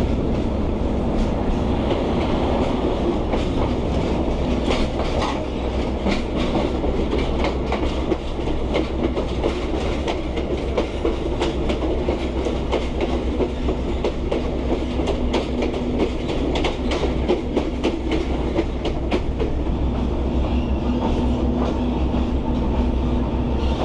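PeruRail passenger train running along the track: a steady low rumble of the carriage with frequent sharp wheel clicks and clatter over the rails.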